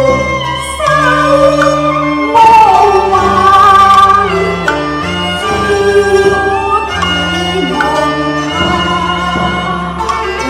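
Cantonese opera music: a traditional Chinese ensemble with bowed strings playing a melodic passage, with a singing voice, louder for a stretch from about two and a half to four seconds in.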